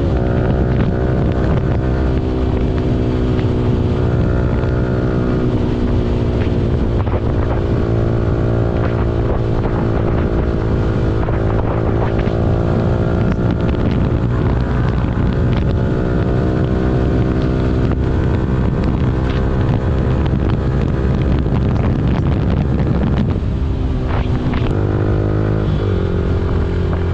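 Yamaha R15 V4's 155 cc single-cylinder engine running under way, its revs rising and falling over and over as the bike speeds up, shifts gear and slows.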